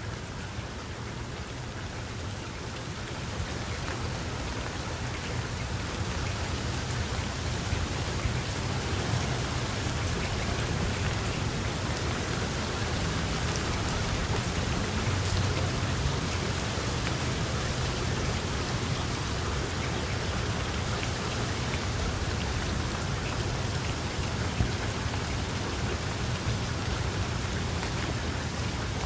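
Steady heavy rain falling, growing a little louder over the first few seconds, with a low rumble underneath.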